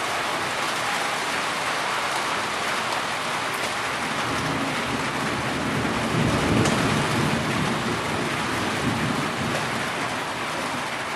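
Heavy rain pouring steadily, with a low roll of thunder that swells about halfway through and fades a few seconds later.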